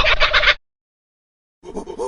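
An animal's rapid rattling call cuts off abruptly about half a second in. After about a second of total silence, a different series of quick, repeated short calls begins near the end.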